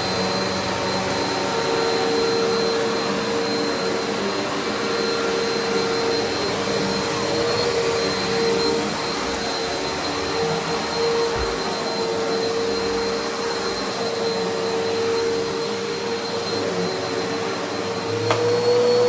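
Eureka Altima upright vacuum cleaner running steadily on carpet, a constant motor whine over the rush of suction, a little louder about a second before the end.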